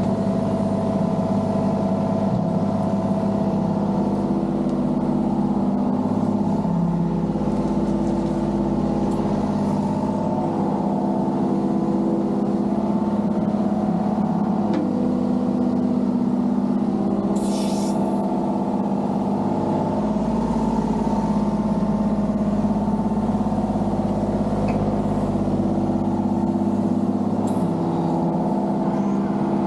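Mini excavator engine running steadily under hydraulic load while digging, with a short hiss about two-thirds through.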